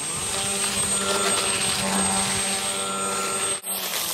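Brushless electric motor and propeller of a small radio-controlled fan boat, running with a steady whine and whir. The sound drops out abruptly about three and a half seconds in, then resumes.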